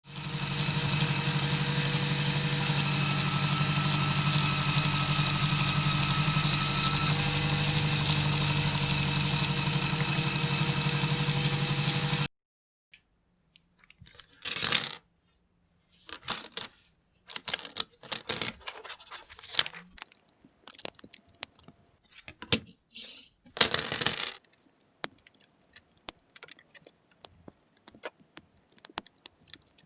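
A small electric motor runs with a steady hum and whine, then cuts off suddenly about twelve seconds in. After a short silence come scattered sharp clicks and clatters of plastic LEGO pieces being handled and snapped together.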